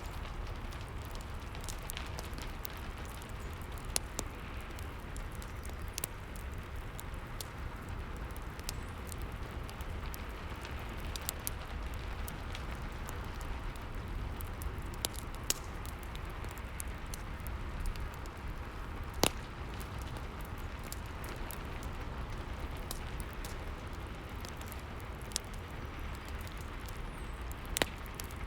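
Rain and fireplace ambience: a steady hiss of rain with a low rumble, and a wood fire's irregular sharp crackles and pops scattered through it.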